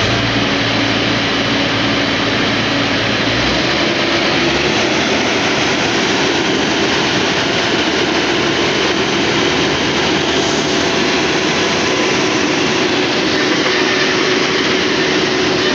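John Deere engine running steadily and loudly, driving a boring machine, with a continuous dense mechanical din. The lowest hum changes about three and a half seconds in.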